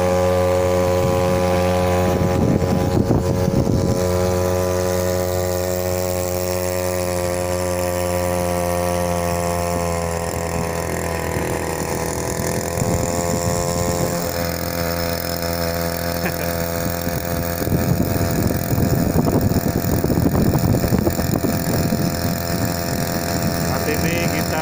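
Small single-cylinder two-stroke, air-cooled outboard motor (Matsumoto MOB-830, 3 hp) running steadily under way. Its pitch sags a little about halfway through, then holds.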